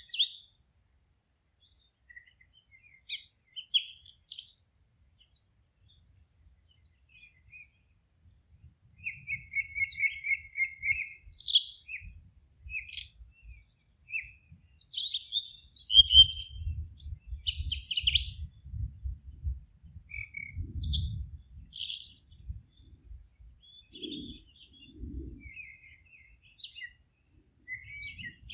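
Songbirds singing and chirping in short, high phrases, several overlapping, with a quick trill of repeated notes about ten seconds in. A faint low rumble runs underneath through the middle.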